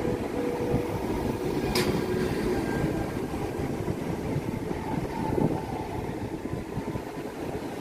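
Vy Class 73 electric multiple unit running past along the platform: a steady rumble of wheels on rail, with one sharp click about two seconds in.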